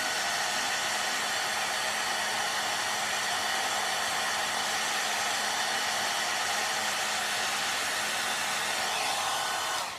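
Handheld hairdryer blowing steadily, a rush of air with a motor whine over it, switched off right at the end.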